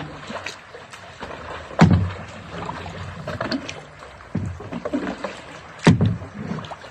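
Kayak being paddled through shallow creek rapids: water splashing, with three hollow knocks against the plastic Pelican kayak's hull, the loudest near the end.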